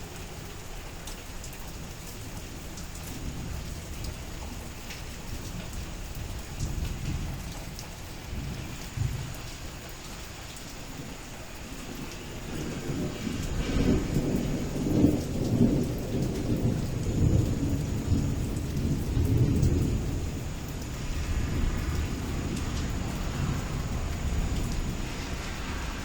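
Heavy rain falling steadily, with a long roll of thunder building about halfway through and rumbling on for several seconds.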